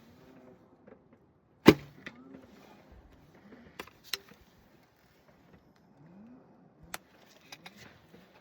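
Archery bow being shot: one loud sharp snap of the string on release about two seconds in, followed by a few smaller clicks and knocks.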